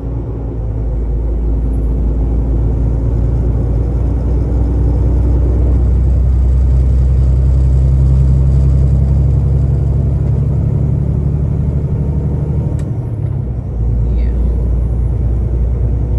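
Semi-truck engine running with a steady low drone that builds slightly in the middle and dips briefly near the end.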